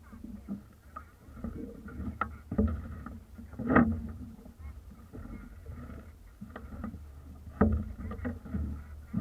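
Strong wind buffeting the microphone with a steady low rumble, broken by a few sharp knocks, the loudest about four seconds in.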